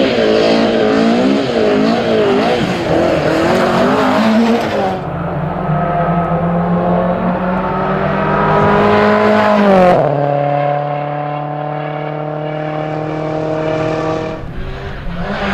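Rally car engine running hard at high revs. Its pitch wavers up and down on the throttle for the first few seconds, then holds steady, drops sharply about ten seconds in, and climbs again near the end.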